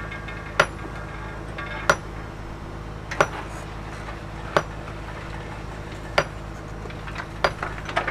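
Six sharp, ringing metallic clinks at a fairly even pace, about one every second and a quarter, like a hammer striking stone, over a steady low engine hum.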